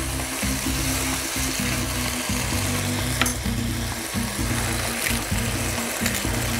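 Farfalle pasta and red mullet sizzling in a nonstick frying pan on a gas burner, stirred with a spoon at first and then left to fry. A couple of brief sharp clicks stand out.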